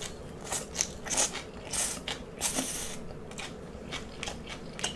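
Close-up chewing of garlic-sautéed ong choy (water spinach): the crisp stems crunch in an irregular run of short, sharp clicks.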